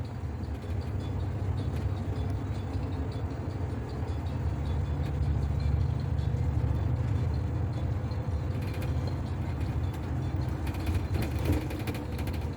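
Double-decker city bus under way, heard from inside the cabin: a steady low engine and road rumble, with light clicks and rattles joining in about two-thirds of the way through.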